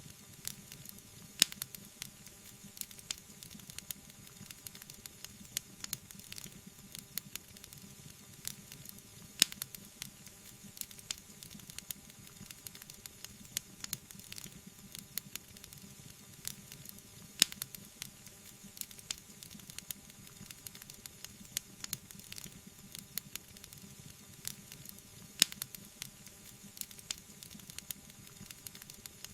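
Wood fire burning in a fireplace, crackling with many small irregular snaps and a few louder pops over a soft steady hiss.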